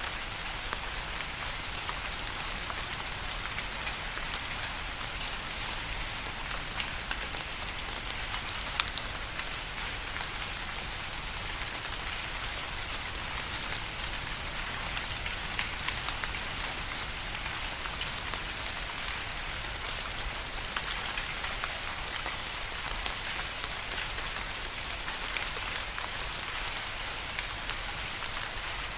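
Steady rain falling on a surface, a dense even hiss with many close individual drops ticking through it, a few landing a little louder.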